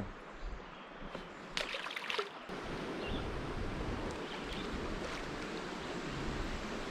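A few light knocks about two seconds in, then a steady rush of moving water around a kayak that grows louder.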